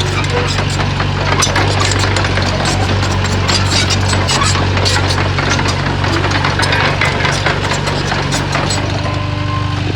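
Heavy diesel earthmoving machinery running steadily under load, its engine a deep constant drone with a rapid, continuous clatter of knocks over it.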